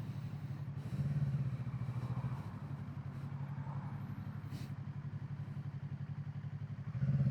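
Kawasaki Z650's parallel-twin engine with its stock exhaust, running at low revs with a steady low pulse, picking up briefly about a second in and again near the end.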